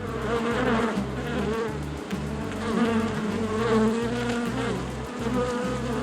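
A flying insect buzzing steadily, its pitch wavering slightly.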